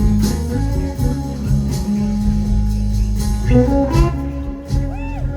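Live blues band playing a slow blues, with an electric guitar fill between sung lines; the guitar notes bend and glide near the end.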